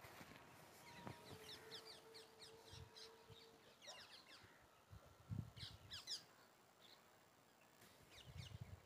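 Faint birdsong: scattered quick chirps from small birds. A faint steady hum runs for a couple of seconds near the start, and a few soft low thumps come around the middle.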